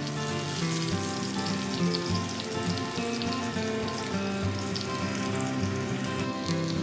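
Chicken cutlets sizzling in hot shallow oil in a frying pan, a steady hiss with small crackles. Background music with changing notes plays along with it.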